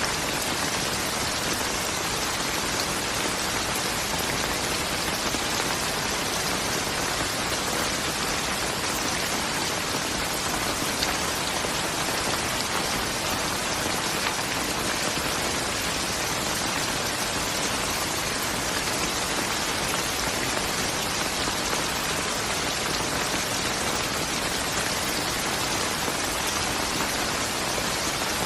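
Steady rain falling on a surface, an even dense patter of drops with no let-up.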